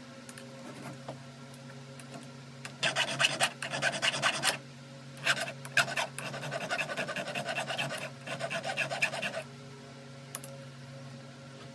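Flat file rasping on the rakers (depth gauges) of a chainsaw chain, in quick back-and-forth strokes. There are two runs of filing, from about 3 s to 9.5 s, with a brief pause near 5 s, lowering the rakers below the cutting teeth.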